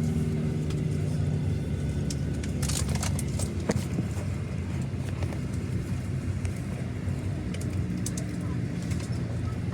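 Steady low hum inside a Boeing 737-900ER's cabin after landing, with a few sharp clicks and knocks about three seconds in.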